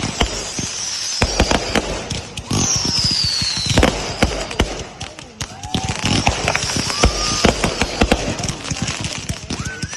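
Fireworks and firecrackers going off in a rapid, irregular string of sharp bangs and cracks. About two and a half seconds in, a whistling firework sounds, its pitch falling for over a second.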